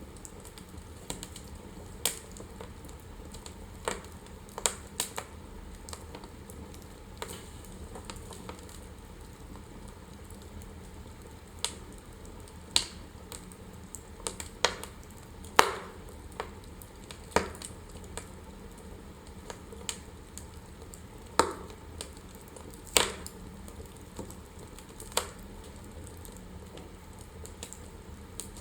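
Wood fire burning in a fireplace: a steady soft hiss with irregular crackles and sharp pops, a few of them louder.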